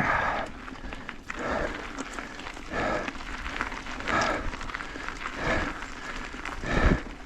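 Heavy, rhythmic breathing of a mountain biker pedalling uphill, one breath a little more than a second apart.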